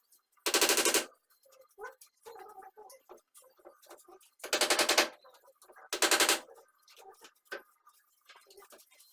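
Three short bursts of a rapid mechanical rattle, each about half a second long, with quieter scraping and knocking between them.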